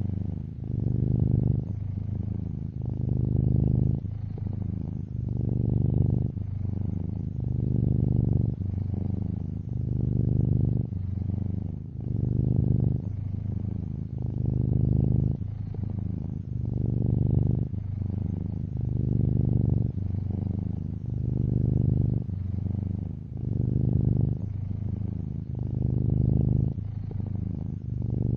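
Domestic cat purring close up: a low rumble that swells louder and softer in turn, about every second and a half, as the cat breathes in and out.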